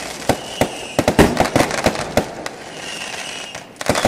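Fireworks going off: an irregular string of sharp bangs and crackles, with a couple of faint whistles.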